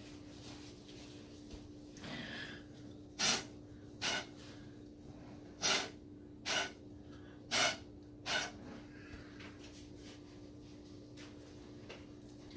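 Six short puffs of breath blown through a straw, in three pairs, to push wet acrylic pour paint across the surface.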